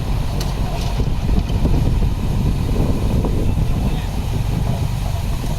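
Heavy diesel earthmoving machinery running, a steady low engine drone with a rough, irregular rumble over it.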